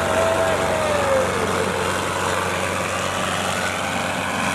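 Tractor diesel engine running steadily, with a higher tone above it that drops in pitch about a second in.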